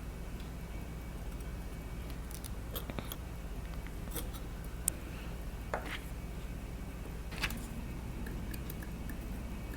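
Faint, scattered clicks of small metal watchmaker's tools, such as tweezers or a screwdriver, touching a vintage watch movement during disassembly, over a steady low hum.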